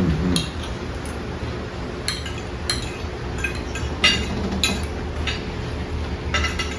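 Cutlery clinking against plates while people eat: scattered single taps with a brief bright ring, about eight of them at uneven intervals.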